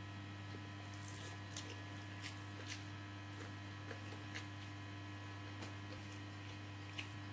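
Faint, scattered wet clicks and smacks of a mouth chewing a mouthful of rice, over a steady low electrical hum.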